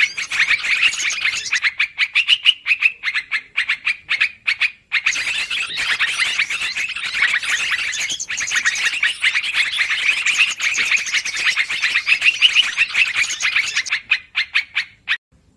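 Yellow-vented bulbuls (trucukan) chattering noisily, a dense run of rapid, overlapping calls with a short break about five seconds in and a thinner stretch near the end: a bird-lure recording.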